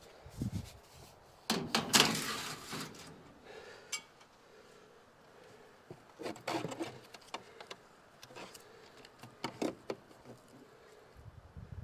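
Hands and tools working on an air-conditioning unit: scattered knocks, clicks and rattles, with a louder clatter about two seconds in.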